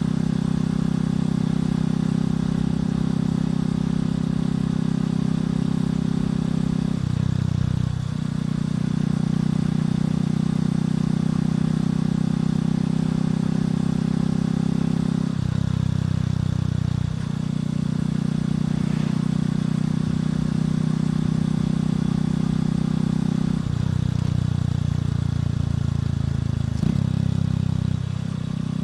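Motorcycle engine and exhaust running steadily while riding. The engine note shifts briefly a few times.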